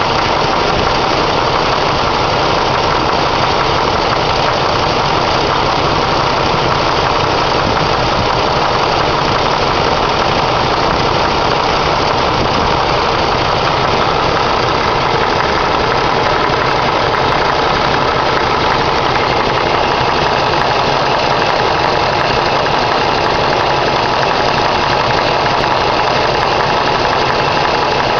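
Ford 302 cubic-inch small-block V8 running steadily with an intermittent knock. The owner first suspected a loose rocker arm; two mechanics diagnosed it as piston slap.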